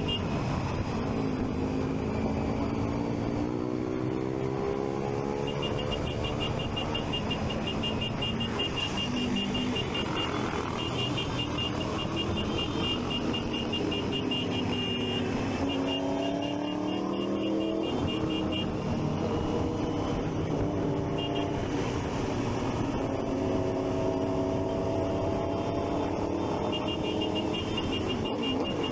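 Triumph Street Triple 675's inline three-cylinder engine pulling under load, its pitch rising as it accelerates and dropping back at gear changes several times, with road and wind noise. A rapid high beeping comes and goes over it.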